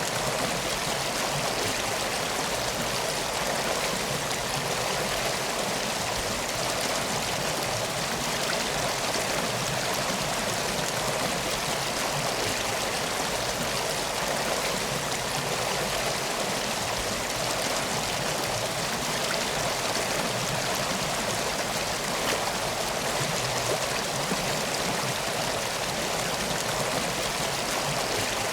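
Steady flowing river water, an even rushing with no breaks.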